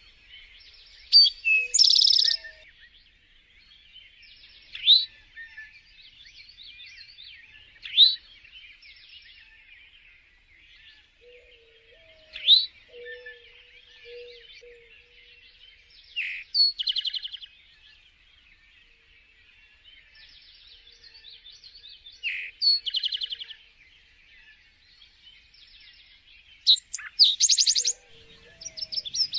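Small songbirds singing, a continuous chatter of high chirps. Louder phrases, some of them rapid buzzy trills, break through every few seconds.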